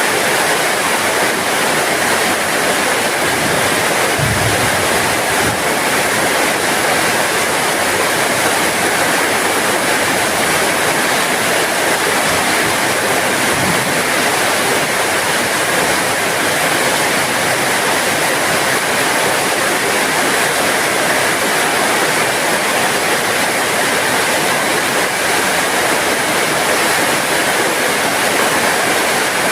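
Heavy rain falling steadily, an even hiss with no let-up, with a brief low thud about four seconds in.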